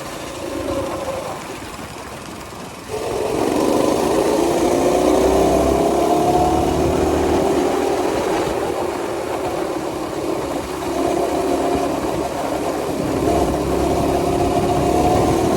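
Minibike's small engine running, opening up about three seconds in and climbing slowly in pitch as it accelerates, easing off briefly past the middle and then pulling again.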